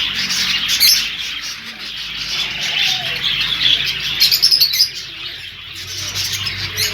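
Many small caged birds chirping and twittering together in a continuous chatter, with a burst of sharper, louder calls about four seconds in.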